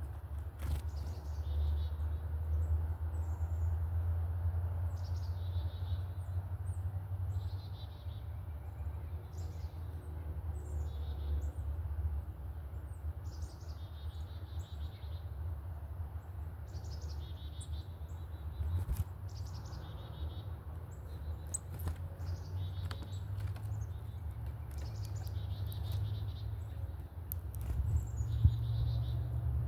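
Small songbirds giving many short, high chirps, one after another, over a steady low rumble.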